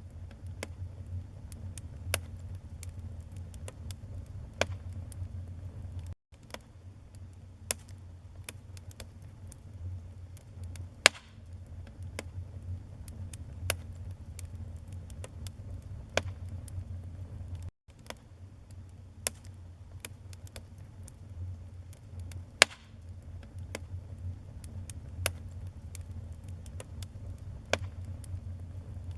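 Wood fire burning in a fireplace: frequent sharp crackles and pops, a few much louder snaps, over a steady low rumble of the flames.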